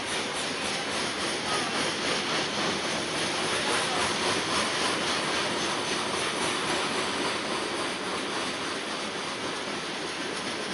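Coal hopper cars of a long freight train rolling past: a steady rushing noise of steel wheels running on the rails.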